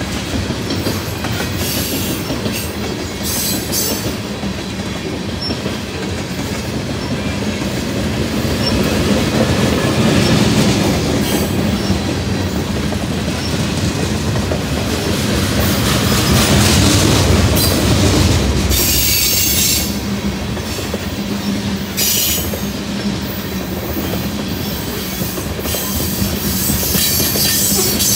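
Freight train tank cars rolling past, their wheels clattering steadily over the rail joints, with high-pitched wheel squeal coming and going several times.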